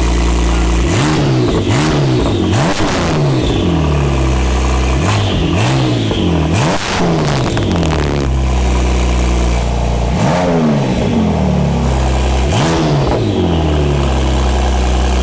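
Porsche 911 Turbo (991.2) twin-turbo flat-six, fitted with a new Capristo exhaust, idling and blipped repeatedly: about eight quick revs rising and falling back to idle, in short clusters. It sounds loud.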